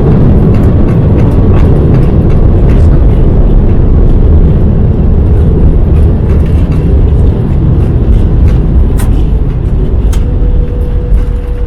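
Airbus A340-600 cockpit during the landing rollout: a loud, steady low rumble of the wheels on the runway and the engines, with scattered knocks and rattles. A steady tone comes in near the end.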